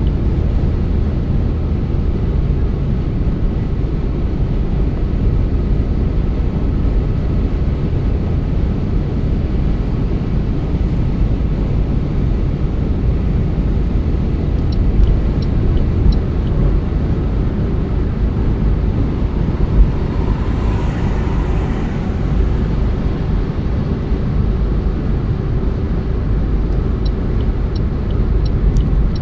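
A car being driven, with a steady low rumble of engine and tyres on the road. A brief swell of hissing noise comes about two-thirds of the way through.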